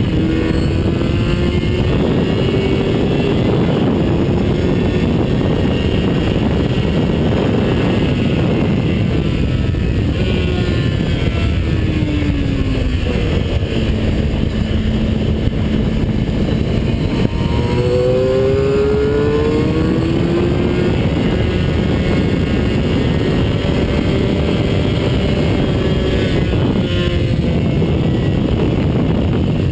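Onboard sound of a vehicle lapping a race circuit at speed: the engine note climbs through the revs and drops back repeatedly with gear changes and braking, under a loud, constant rush of wind and road noise.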